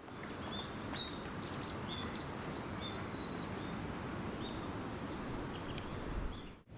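Small birds chirping in short high calls over a steady rushing outdoor noise.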